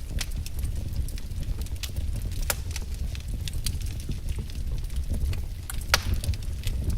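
Wood fire crackling: a steady low rumble of burning with irregular sharp pops and snaps, one louder pop about six seconds in.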